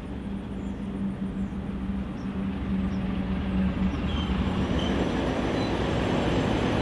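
Pair of Alco C420 diesel locomotives with V12 engines approaching slowly, their engine drone steady and growing louder as they near. A couple of faint short high squeals from the wheels come about four and five seconds in.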